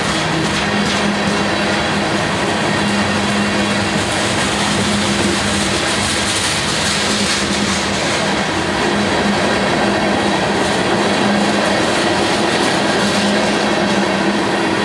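Freight cars of a Norfolk Southern freight train rolling past close by: a steady rush of steel wheels on rail with faint clicks and a low hum that comes and goes.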